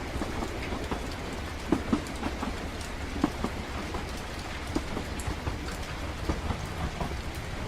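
Ambience of a moving train: a steady low rumble with rain drops tapping irregularly over it, a few sharper ticks standing out.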